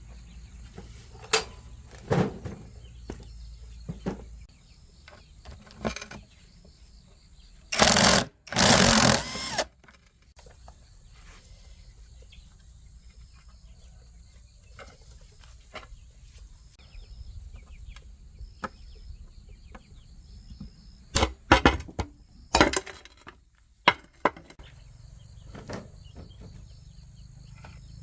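Scattered knocks and clinks of hand work on metal parts, with two short, loud bursts of noise about eight seconds in and a few sharp knocks a little past twenty seconds. Insects chirp faintly and steadily underneath.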